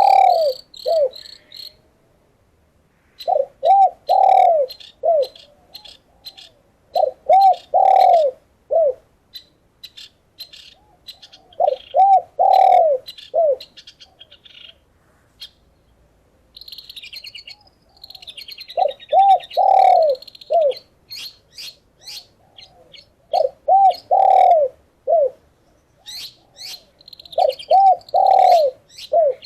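A dove cooing, in phrases of three or four rounded notes repeated every few seconds. Short, high chirps of a smaller bird are mixed in between the phrases.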